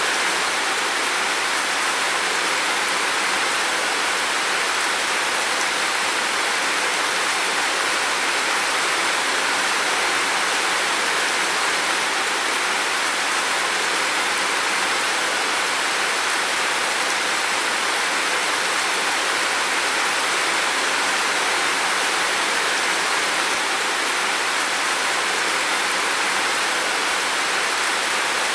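Heavy rain falling in a steady, unbroken hiss, with no thunder or separate drops standing out.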